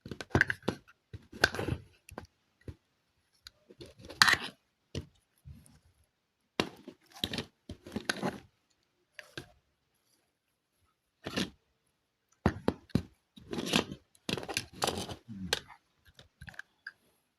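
Irregular tearing and crinkling of packaging being handled, in short bursts with silent pauses between them.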